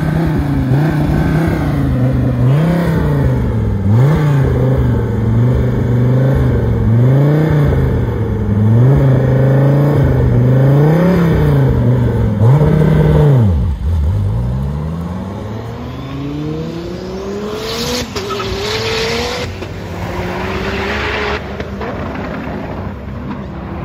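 Dodge Viper V10 engine held at low revs and blipped rhythmically, about one rise and fall every one and a half seconds, while staged at the start line. About halfway through it launches: the revs climb steadily, break at two gear shifts and climb again as the car pulls away.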